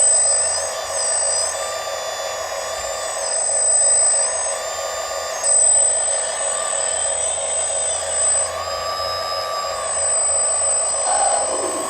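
Electric motors of several RC construction models (excavators, dump trucks and a loader) whining together, several pitches rising, holding and falling again every second or two as the machines are throttled up and down.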